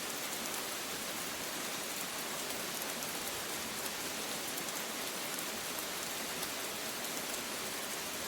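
Steady rain falling, an even hiss of many fine drops pattering on a surface, with no thunder heard.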